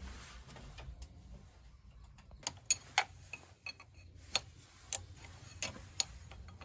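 A run of sharp, irregular clicks or taps, about ten of them, starting about two seconds in.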